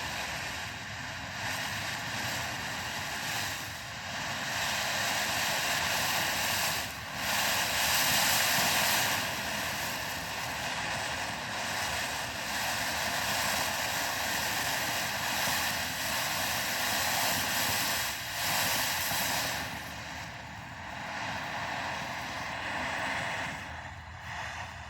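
Big Fireworks 'Summertime' consumer firework fountain burning: a steady rushing hiss of spraying sparks that surges and eases, the hiss thinning out in the last few seconds.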